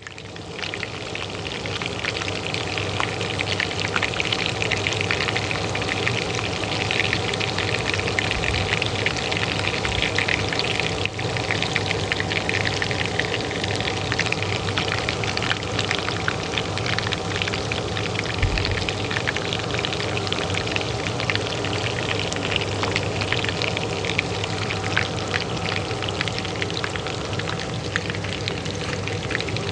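Hot oil frying in a pan: a dense, steady crackling sizzle of many small pops, over the even hum of a running kitchen range hood fan. It fades in over the first second or two.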